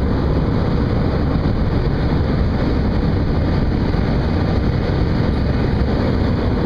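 Steady low rumble with hiss on the deck of a ship at sea in rough weather: the vessel's machinery running, with wind and sea against it.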